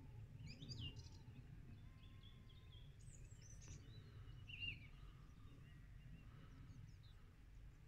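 Near silence: faint open-air background with a low rumble and a few faint, short bird chirps scattered through it.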